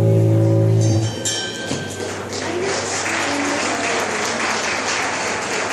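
A live band's final sustained chord, on guitar and bass, stops about a second in, and the audience breaks into applause.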